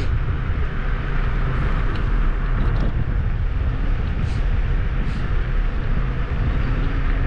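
Kugoo G2 Max electric scooter riding along, a steady rumble of tyres and wind on the microphone, with a few faint ticks.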